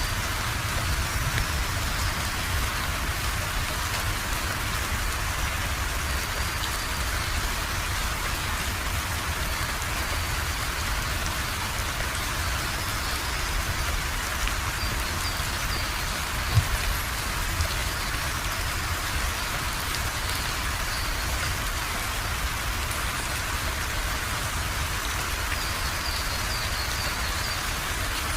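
Steady rain falling and pattering on surfaces, an even hiss of drops. A sharp tap a little past halfway, and a softer one about a second later.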